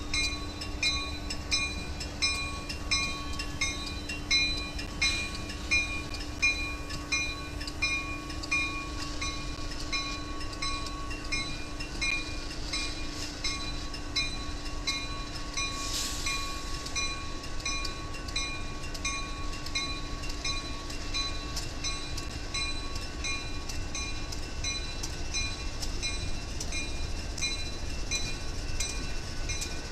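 Diesel freight locomotives rumbling past, while a grade-crossing warning bell dings about twice a second. A short hiss comes about halfway through.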